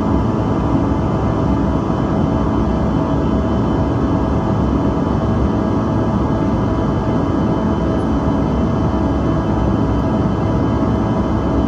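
Cabin noise of a Bombardier CRJ-200 airliner in flight: its rear-mounted General Electric CF34 turbofans running steadily, several fixed whining tones over a constant low rush of air and engine rumble.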